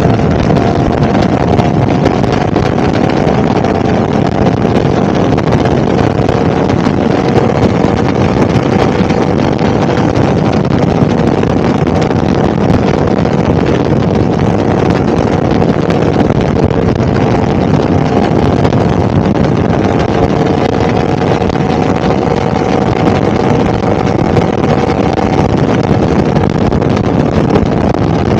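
Yamaha R1 crossplane inline-four engine running at a steady, near-constant speed, with wind noise over the microphone.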